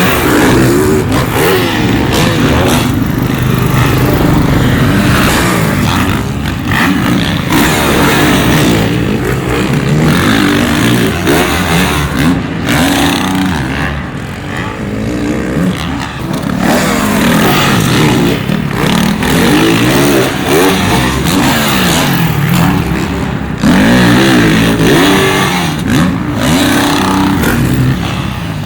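Supercross dirt bikes on a practice lap, engines revving up and down over and over as the riders work the throttle through jumps and turns. At times more than one bike is heard at once.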